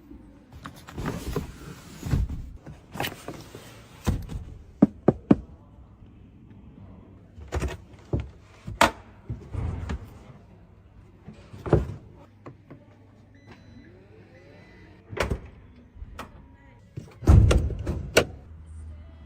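A string of clicks, latches and thunks from a Lynk & Co 01's doors and fittings being opened and shut, with the loudest thumps near the end.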